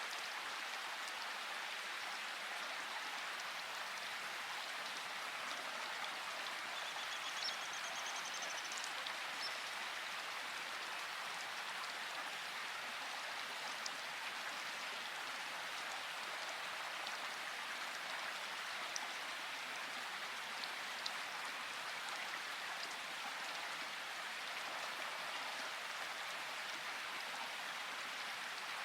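Steady rain falling, an even hiss with occasional sharper drop ticks. A faint, high, rapid trill comes in briefly about seven seconds in.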